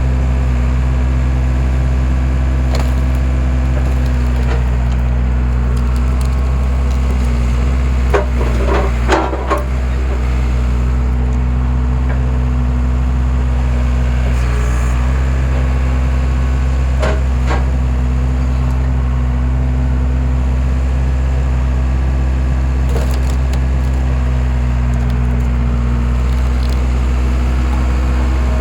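Skid steer engine running steadily while its homemade wood splitter attachment splits rounds. Wood cracks and splinters in short bursts, loudest about a third of the way in and again a little past halfway.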